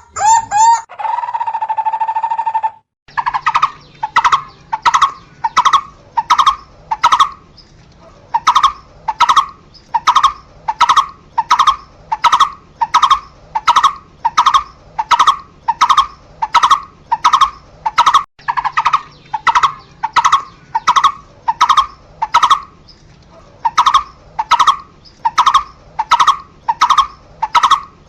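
A barbet calling a long series of single repeated notes, about two a second, pausing briefly twice. For the first three seconds a different steady held tone sounds before breaking off.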